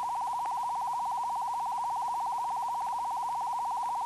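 A steady, high, beep-like electronic tone with a fast even flutter, held unchanged throughout: a sound effect on an old instructional film's soundtrack.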